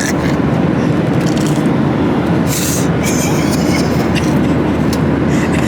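Steady, loud low rumble of an airliner cabin in flight, with a brief hiss about two and a half seconds in.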